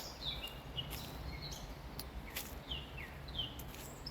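Songbirds chirping by a river, with short calls that slide downward, repeated several times. A faint steady low hum and a few soft clicks lie underneath.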